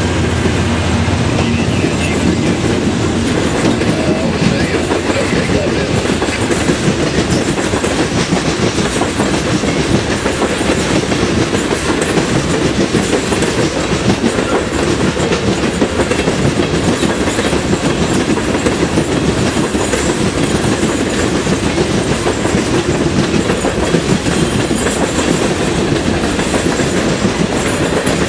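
A train's cars rolling past, their wheels clacking steadily over the rail joints.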